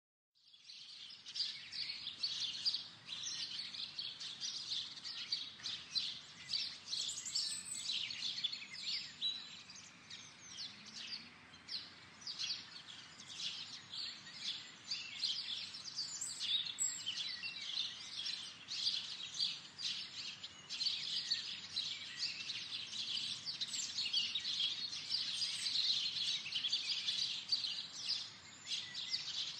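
Several birds chirping and singing at once: a dense, continuous chorus of short, high, overlapping calls.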